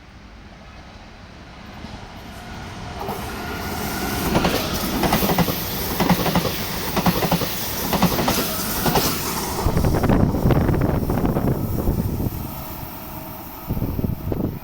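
RE 6 regional train passing: the rumble builds, then a steady clatter of wheel sets over the rail joints, with a thin squeal from the wheels, and then it fades away. A few sharp knocks come near the end.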